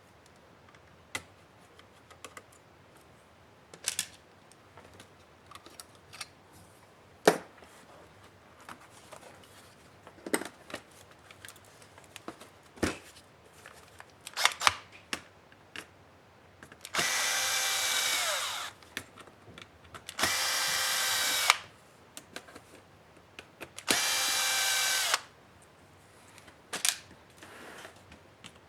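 Small power screwdriver running in three short bursts of a second or two each, a steady whine, as screws are driven out of a laptop's case. Before the bursts come scattered sharp clicks and taps of plastic parts and screws being handled.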